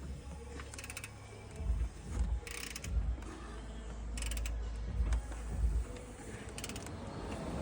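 Hand ratchet clicking in short runs, with several dull knocks of tools on the engine, while the engine is set to top dead center for a timing chain job.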